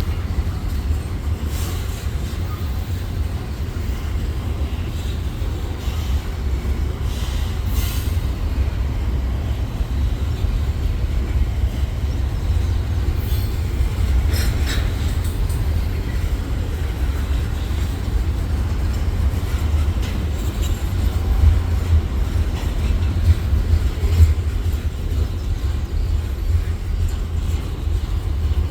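A train rolling past: a steady low rumble with a few brief high wheel squeals or screeches, the clearest about halfway through.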